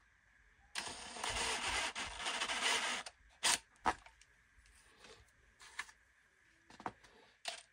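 Power drill running for about two seconds, then a few sharp clicks and taps as the tool is handled.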